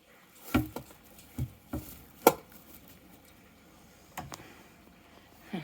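Rabbit doe eating raw vegetables: a handful of sharp, irregularly spaced crunches, the loudest about two seconds in. She is eating after giving birth.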